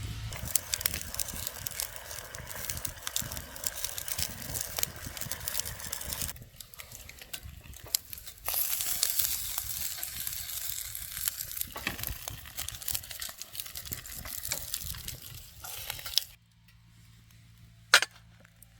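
Food sizzling and crackling in a frying pan, softer for a couple of seconds, then louder again, stopping about 16 seconds in. One sharp click comes near the end.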